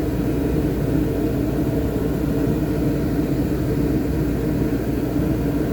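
Shop heater running: a steady hum with a few constant low tones.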